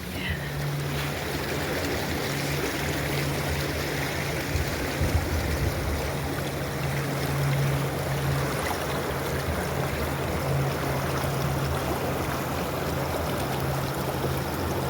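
Running water, a stream flowing and trickling. A low steady hum runs underneath and drops out briefly a few times.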